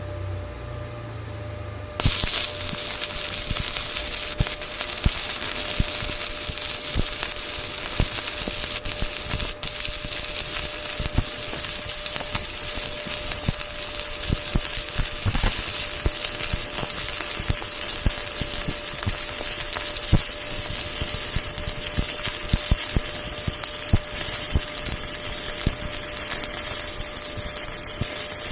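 Electric arc welding: a steady crackling sizzle with irregular sharp pops, starting abruptly about two seconds in.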